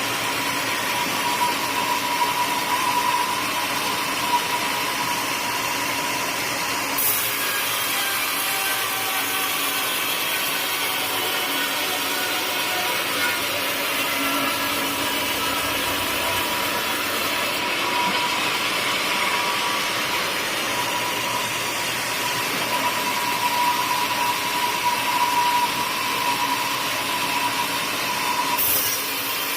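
Bandsaw mill sawing a teak log: a steady, continuous machine-and-blade noise with a constant whine. About a quarter of the way in, a high hiss sets in abruptly and then holds.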